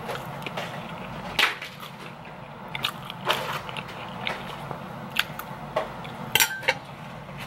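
A person chewing and biting food close to the microphone, with irregular sharp wet clicks and crunches of mouth sounds scattered throughout.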